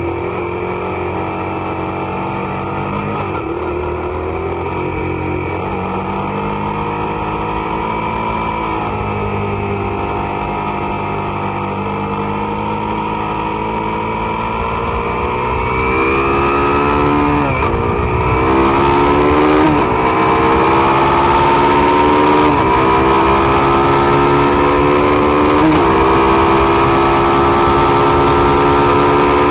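Suzuki SV650's V-twin engine running at speed on track, its pitch rising and falling. From about halfway it gets louder, with several brief sharp dips in pitch and then a long steady climb under acceleration, while wind rushes over the microphone.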